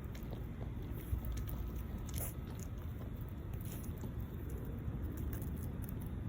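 French bulldog puppy chewing and biting on something, a scatter of small irregular clicks and crunches over a steady low hum.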